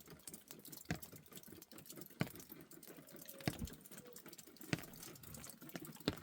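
Five sharp single taps at an even pace, about one every second and a quarter, over faint crackling.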